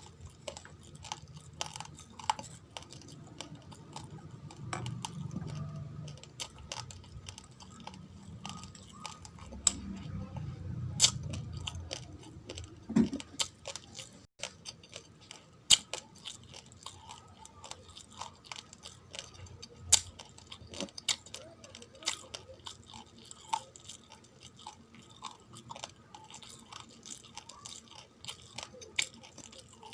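A person chewing raw, uncooked rice grains: a dense, irregular run of sharp crunches and clicks.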